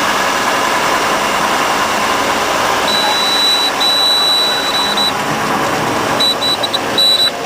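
Cockpit noise of a 1953 Cessna 170B in flight on a landing approach: its six-cylinder Continental engine running steadily under the rush of air. A high, thin steady tone comes on about three seconds in and holds for about two seconds, then sounds again in several short on-off pulses near the end.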